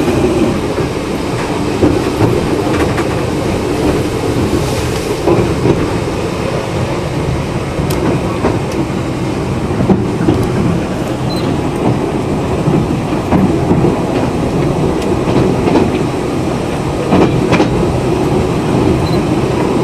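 Narrow-gauge train running along the track, heard from inside the carriage: a steady rumble of wheels on rail with occasional sharp clicks over the rail joints.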